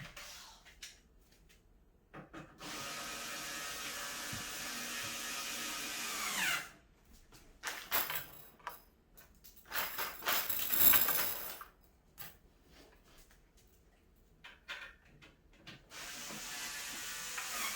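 Electric drill-driver running in two long runs while assembling furniture. The first run winds down in pitch about six and a half seconds in; scattered clicks and knocks come between the runs.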